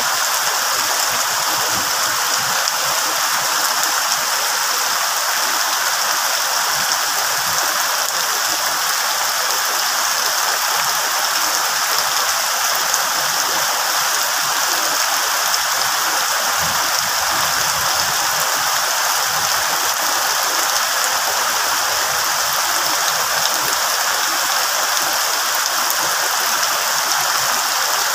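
Rain falling steadily on banana leaves and surrounding foliage, an even, unbroken hiss.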